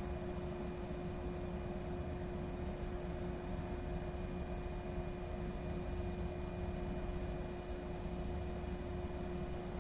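JR 115 series electric train rolling slowly across the yard: a steady low rumble under a constant mechanical hum made of several fixed tones.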